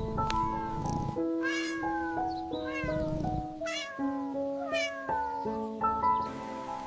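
A cat meowing four times, about a second apart, over gentle background music with a slow melody of single notes.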